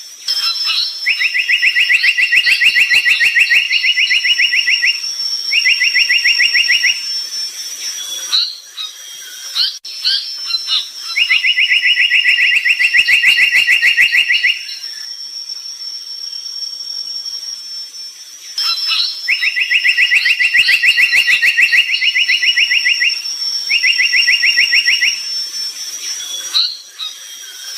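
Brown tali pocong bird singing: a fast, even, buzzy trill of a few seconds followed by a shorter trill, with short chirps between, the phrase repeated three times. A steady high-pitched whine runs behind it.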